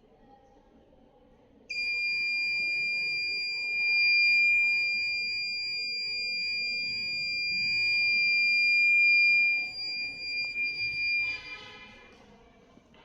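Electronic buzzer of a noise pollution meter sounding one steady high-pitched tone for about nine and a half seconds, starting sharply and then cutting off, followed by a brief noisy rattle.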